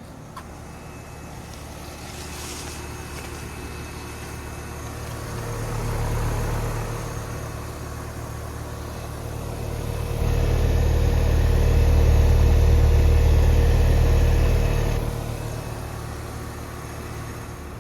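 Bryant heat pump outdoor units running in heat mode: a steady hum of compressors and fans. The hum swells about six seconds in, then grows clearly louder and deeper from about ten to fifteen seconds before dropping back.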